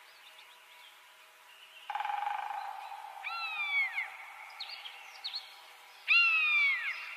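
Bird calls: a few short high chirps and two loud whistled calls falling in pitch, about three seconds apart, over a steady hum.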